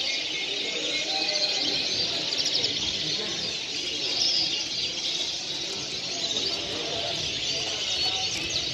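Many caged songbirds chirping and singing at once: a dense chorus of overlapping chirps and trills with no break.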